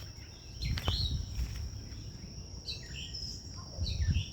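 Insects trilling, a steady high tone throughout, with a few short bird chirps over it: one about a second in, a couple around three seconds, and one near the end. A low rumble lies underneath.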